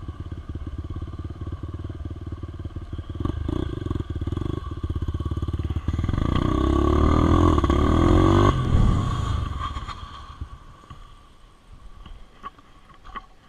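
Motorcycle engine running as the bike rides, swelling to its loudest between about six and eight seconds in, then dropping away and fading over the last few seconds.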